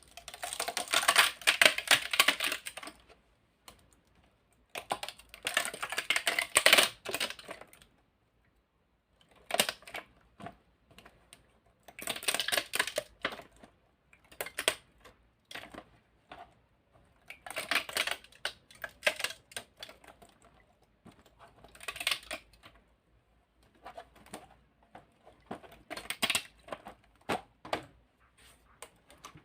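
A 3D-printed plastic centipede's jointed segments clicking and clattering against each other as it is moved. The clatter comes in bursts of a second or more, about every four to five seconds, with short pauses between them.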